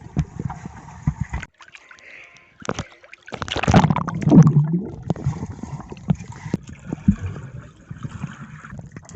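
Pool water splashing and sloshing, with a short break about a second and a half in.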